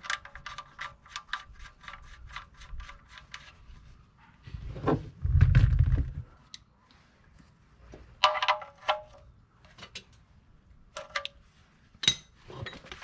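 A 3/8-inch ratchet clicking in a quick run of strokes as the oil pan drain plug is run back in, with a second short run of clicks and a few single metallic clicks later. A loud low rumble comes in between.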